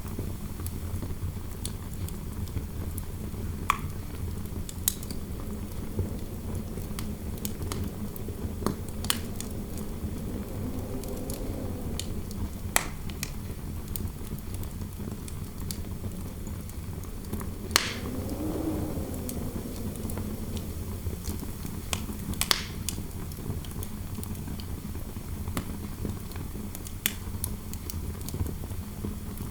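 Fireplace fire crackling, with sharp irregular pops over a steady low rumble. Soft wind howling rises and falls twice, about a third of the way in and again just past the middle.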